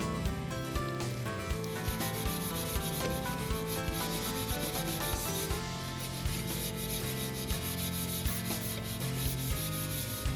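Cloth rubbing Pikal metal polish onto a metal stepladder in quick repeated strokes, a steady scrubbing hiss.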